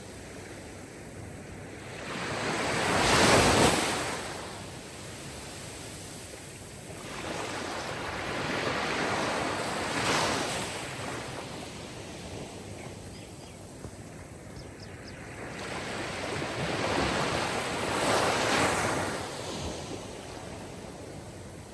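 Sea waves washing onto a shore: three slow surges that swell up and fall back, the first the loudest.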